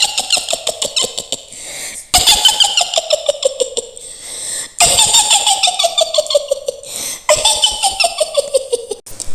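Shrill cackling witch laugh in the style of Mak Lampir, the Indonesian horror character: a woman's voice in four quick runs of rapid "hi-hi-hi" pulses, each sliding down in pitch.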